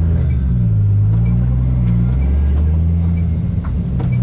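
Inline-six engine of a 1JZ-swapped Nissan 240SX idling steadily, its pitch wavering slightly now and then.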